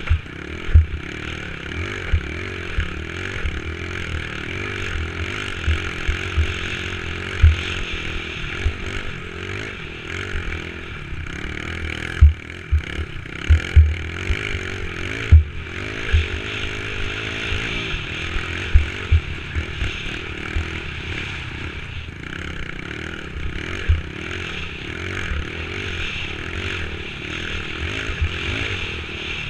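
Dirt bike engine running steadily during a ride, with frequent short low thumps and clattering throughout.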